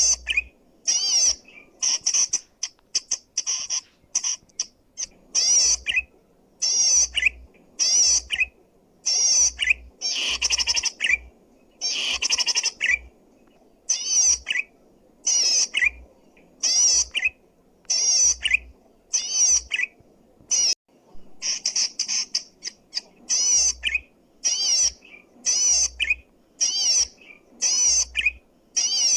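Zitting cisticola (cici padi) singing loudly and repeatedly. Each short phrase is a rapid run of high, buzzy zig-zag notes, and the phrases come about one a second with brief gaps between.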